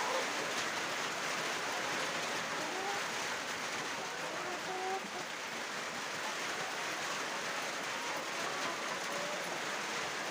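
A flock of laying hens in a poultry house, a dense steady chatter of clucking with short higher calls scattered through it.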